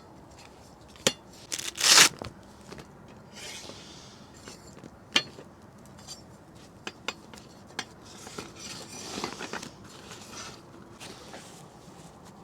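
Hard objects clinking and knocking as they are handled, with a loud clatter about two seconds in, a sharp knock about five seconds in, and rustling between.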